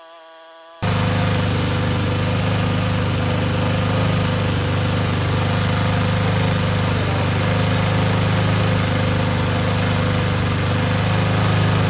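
Honda GCP160 single-cylinder overhead-cam lawnmower engine running steadily at a constant speed, with ketchup in its crankcase instead of oil. It comes in abruptly about a second in, after a faint steady tone.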